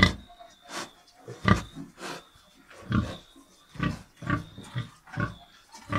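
Pig grunting: a series of short grunts, roughly one a second.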